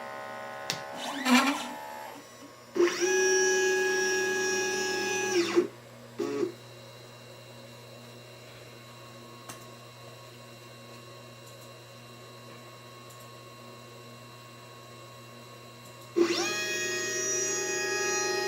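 LitePlacer pick-and-place machine's stepper motors whining as the head moves. A short rise-and-fall of pitch comes about a second in, then a steady whine for about three seconds and a brief blip. A quieter stretch with a low hum follows, and the whine starts again near the end.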